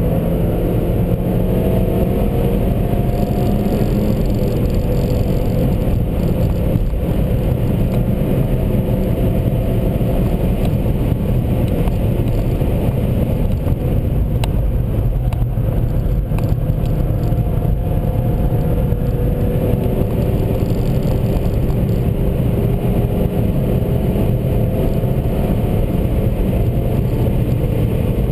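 Seat Leon Cupra 1P's turbocharged four-cylinder engine under hard acceleration at speed, with heavy road and wind noise. Its pitch climbs through the gears in the first few seconds and again over the last several seconds.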